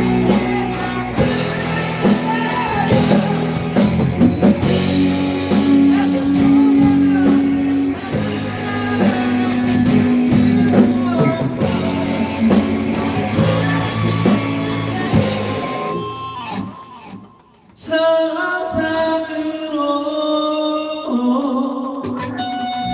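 Live rock band playing a power ballad with a singer holding long, high notes over electric guitar and drum kit; about 16 seconds in the band drops out almost to silence, then an electric guitar comes back alone with sustained notes.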